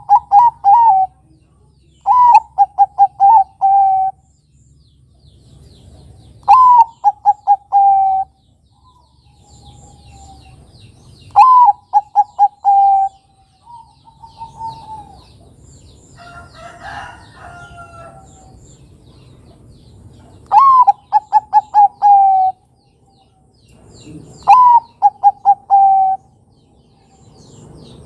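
Bangkok-type perkutut (zebra dove) cooing in repeated phrases. Each phrase is a rising opening note followed by a quick run of four to six falling coos, and comes every few seconds, six times, with a longer gap in the middle.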